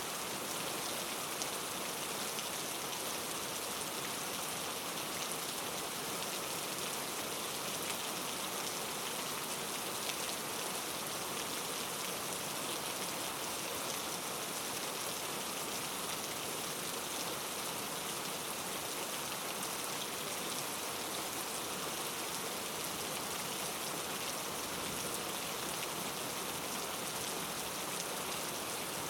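Steady rain falling, an even hiss of many raindrops hitting a surface.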